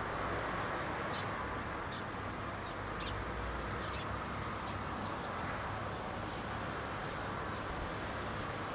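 A bird calling repeatedly in short, faint calls about once a second, over a steady outdoor background of wind noise and a low hum.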